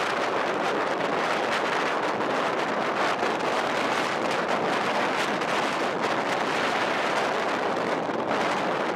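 Blizzard wind blowing in a steady rush of noise.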